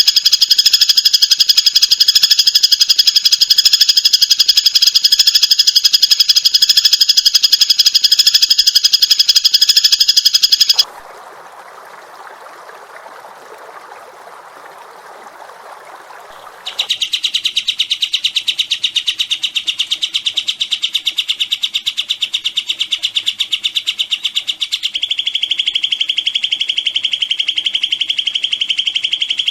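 Songbird song in a very rapid, continuous high trill. Just before halfway it breaks off abruptly into a quieter, lower rasping stretch of about six seconds, then a fast trill resumes, stepping slightly lower in pitch near the end.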